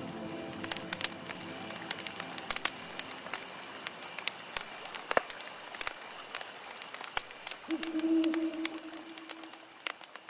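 Campfire crackling with irregular sharp pops as the last of the music fades. A steady low tone comes in about eight seconds in and holds for about two seconds.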